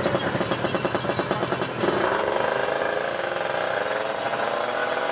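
Drag-racing motorcycle engine running hard at high revs with a fast, rattly pulse. Its pitch dips briefly about two seconds in, then climbs slowly again.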